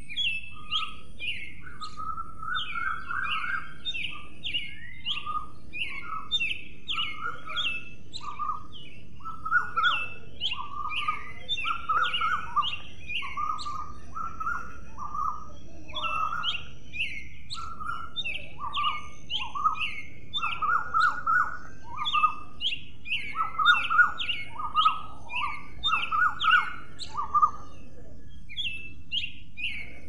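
Birds chirping: a busy run of short, downward-slurred chirps, several a second, with a few brief pauses.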